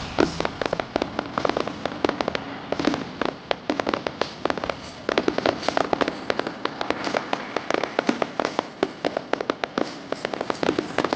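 Fireworks crackling and popping in a rapid, dense string of sharp reports, some louder bangs among many small crackles, with no let-up.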